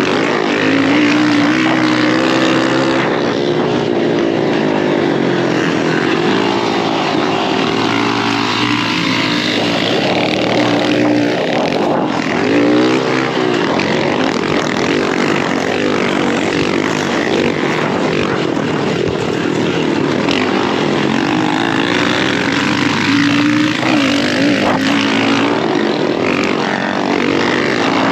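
Dirt bike engine being ridden hard, its pitch rising and falling again and again as the rider accelerates, shifts and backs off, over a constant rushing noise.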